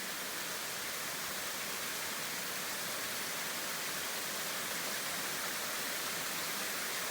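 Waterfall rushing steadily over rocky ledges into the pool below, a constant, even wash of water noise.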